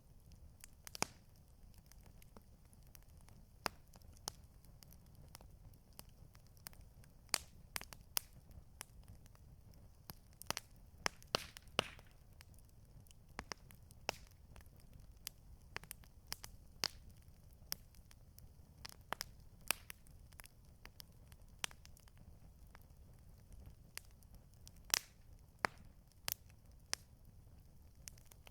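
Campfire crackling, with irregular sharp pops and snaps, some much louder than others, over a low steady rumble.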